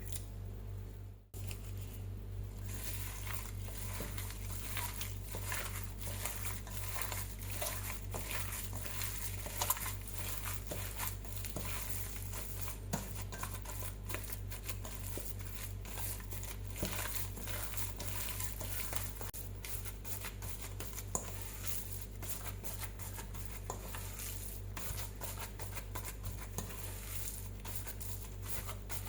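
Hands mixing and kneading raw beef mince with minced onion, carrot, egg and panko in a bowl: a run of soft wet squishing with many small irregular clicks and crinkles, over a steady low hum.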